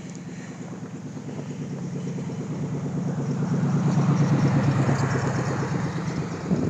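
A motor vehicle's engine running with a fast, even throb, growing louder to a peak about four seconds in, then easing off slightly.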